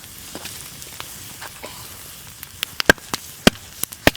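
Wood fire crackling and popping under a frying pan, with a faint steady sizzle of bacon and ham frying. The sharp pops come louder and more often in the second half.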